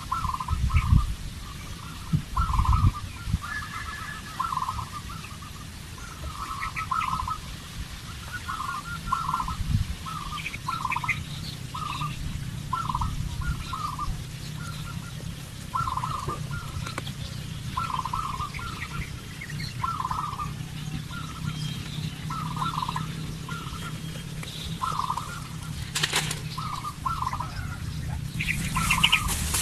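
Birds calling: short calls repeated about once or twice a second over a steady low rumble. A sharp click comes near the end, followed by a louder rushing noise.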